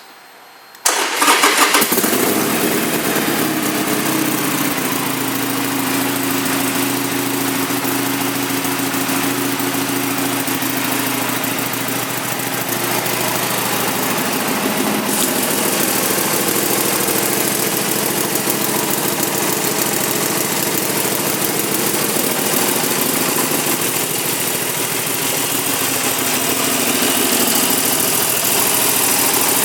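A 2014 Harley-Davidson Sportster Iron 883's stock air-cooled 883 cc V-twin is started on the electric starter about a second in and catches almost at once. It then idles steadily through the stock exhaust, settling slightly lower in pitch over the first few seconds.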